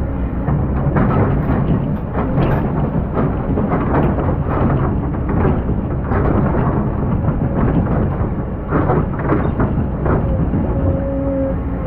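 Excavator working in sand: the engine runs under a heavy rumble while the bucket scrapes and crunches through sand and gravel in an irregular stream of knocks. A steady whine comes in near the end.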